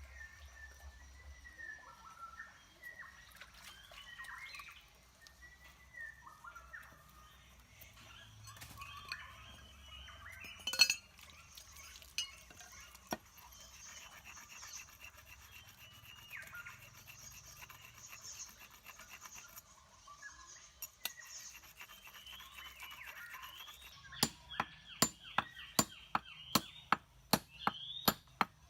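Rapid back-and-forth scraping, like rubbing or grinding by hand, with birds chirping. About 24 seconds in it gives way to steady chopping strikes, about two a second.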